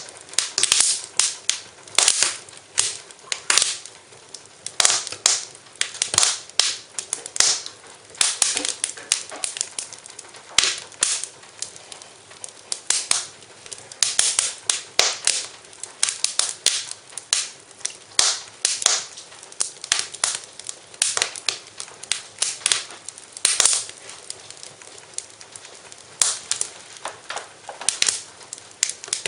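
Wood fire in a fireplace crackling, with frequent sharp, irregular pops over a faint steady hiss.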